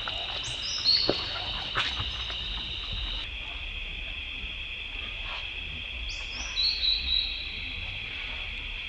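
Two short, high animal calls that fall in pitch, about six seconds apart, over a steady high-pitched drone.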